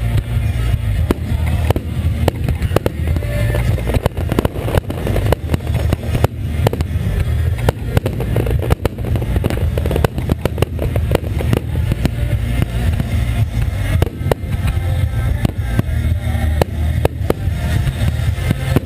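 Fireworks display: aerial shells bursting one after another, many sharp bangs over a constant low rumble, thickest in the middle stretch.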